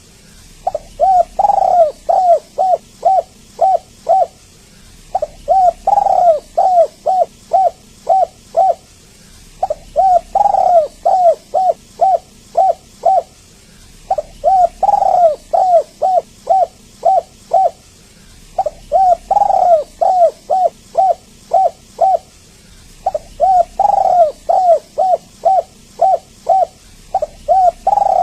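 Spotted dove (tekukur) cooing in repeated phrases about every four and a half seconds. Each phrase is one louder, drawn-out coo followed by a quick run of short coos.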